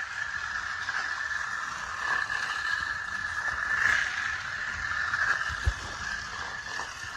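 Battery-powered toy race car's small electric motor whining steadily as it runs along a plastic track, growing louder and softer as it comes near and goes away. A single knock comes a little more than halfway through.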